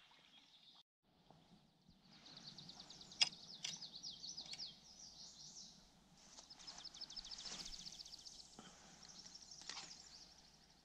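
A songbird singing two long, rapid high-pitched trills, one starting about two seconds in and the other about six seconds in, with a single sharp click about three seconds in.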